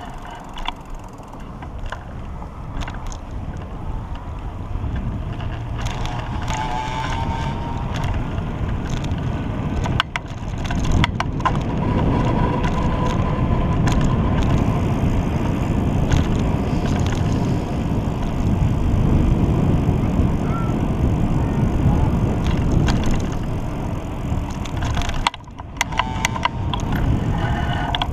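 Wind rumble and road noise while riding a pedal bicycle, a steady noisy rush that grows louder about ten seconds in, with scattered clicks and rattles and a brief drop near the end.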